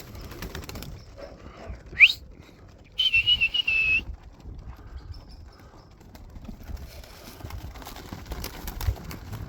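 Whistling used to call pigeons down to the loft: a short, sharp rising whistle about two seconds in, then a steady high trilled whistle lasting about a second.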